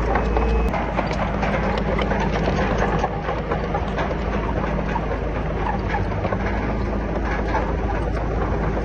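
Komatsu D31PX crawler bulldozer's diesel engine running steadily under a dense metallic clatter of its tracks. The low engine rumble drops slightly under a second in.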